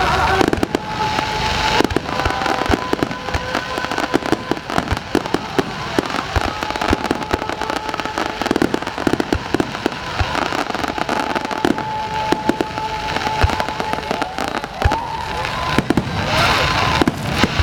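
Fireworks finale: a dense, continuous barrage of aerial shells bursting and crackling, the bangs coming irregularly and close together.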